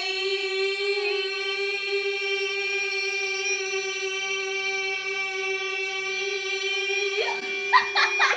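A woman singing one long held note, steady in pitch for about seven seconds with a slight waver about a second in. Near the end a second voice swoops up in pitch over it, and the sound cuts off.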